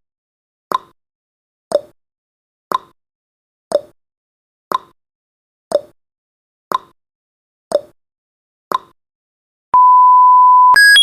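Countdown timer sound effect: a clock ticking once a second, the ticks alternating higher and lower, through the last seconds. At zero, about ten seconds in, a steady electronic beep sounds for about a second, then a louder, higher alarm of stepped beeps begins near the end.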